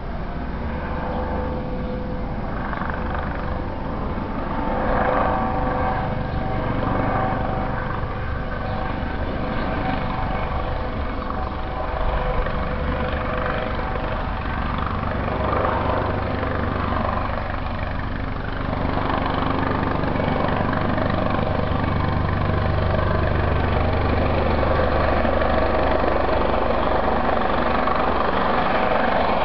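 Police helicopter hovering: a steady rotor chop with a constant whine above it, growing a little louder about two-thirds of the way through.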